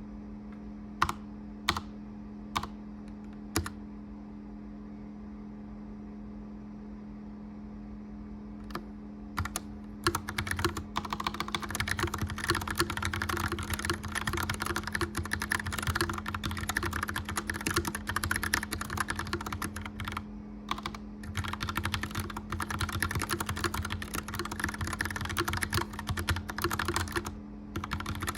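Mechanical keyboard typing: a few separate keystrokes in the first few seconds, then fast continuous clicky typing from about nine seconds in, with a couple of short pauses. Under it runs the steady hum of a gas fireplace fan.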